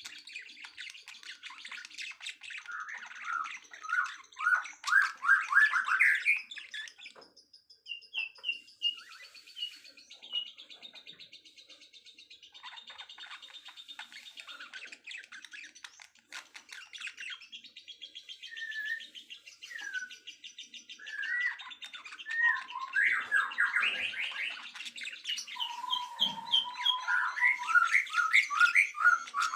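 Several songbirds chirping and singing at once in quick, overlapping phrases of repeated notes. Loud runs of fast notes come about four to six seconds in and again near the end.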